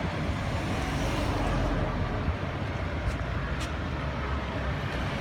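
Steady outdoor background rumble and hiss, with two faint high clicks a little past three seconds in.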